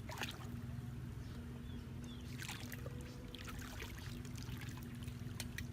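Water splashing and trickling in short scattered bursts, over a steady low hum.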